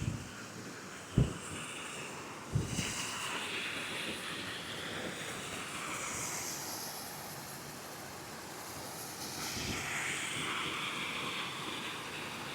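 Wind rushing over the microphone, swelling twice, with three low knocks in the first three seconds, the second the loudest.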